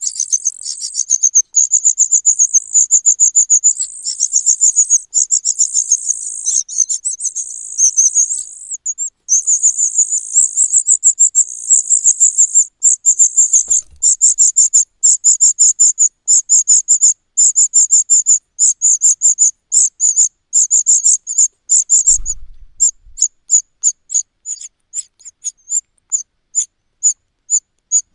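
Cuckoo chick's high-pitched, rapid begging calls, a fast run of many notes a second. Near the end they thin out to separate calls spaced about half a second apart, with a brief low bump just before.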